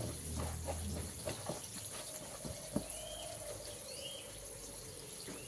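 Faint handling noise of light taps and clicks, with three short high chirps about a second apart in the second half.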